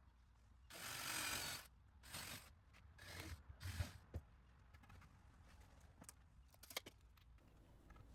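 Faint workbench sounds of screws being driven into a wooden 2x4 frame: a rasp lasting about a second, then several shorter rasps and a few sharp clicks.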